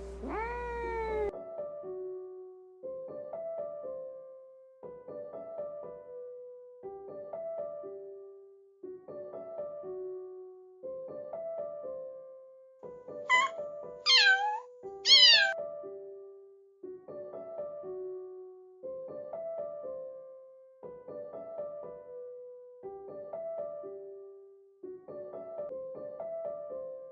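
Kitten meowing: one falling meow at the start, then three loud, high-pitched meows in quick succession about halfway through, over background piano music with a short phrase repeating every two seconds.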